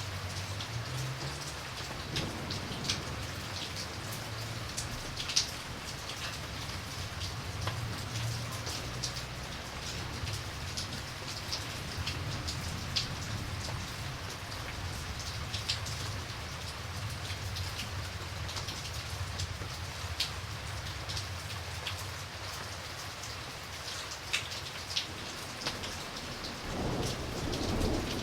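Steady rain falling, with individual drops ticking sharply on a hard surface. A low thunder rumble runs underneath and swells near the end.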